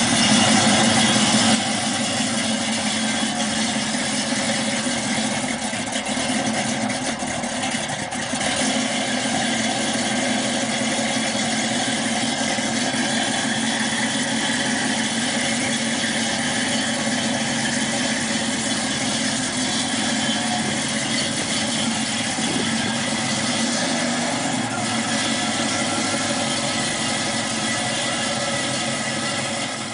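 V8 engine of a 1969 Camaro SS 396 tribute running steadily at low speed, a little louder in the first second or so.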